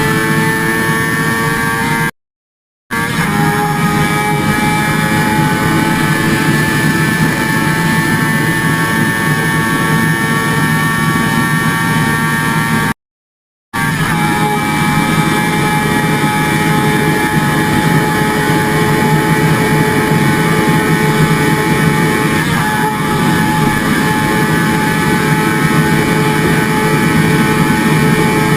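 A motor running steadily with a constant whining pitch, cut off twice by short gaps of silence, about two seconds in and about thirteen seconds in.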